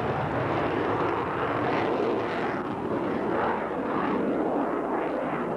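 Military display jets flying over, a steady, dense jet engine noise with slight rises and falls in pitch.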